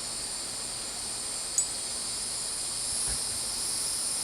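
Crickets chirring steadily, a constant high-pitched trill; a short sharp click about a second and a half in and a soft low thump about three seconds in.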